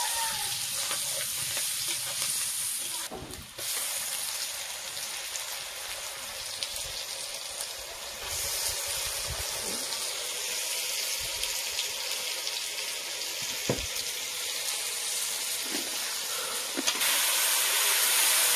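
Curry masala sizzling as it fries in a black iron kadai over a wood fire, with a steady hiss. A spatula stirs through it, with a few sharp clicks against the pan.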